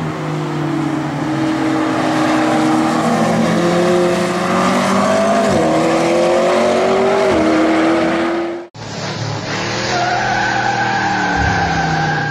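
McLaren P1's twin-turbo V8 running hard on a track. Its steady engine note drops briefly at each gear change, twice. The sound breaks off abruptly just under nine seconds in, then the engine resumes and falls away near the end.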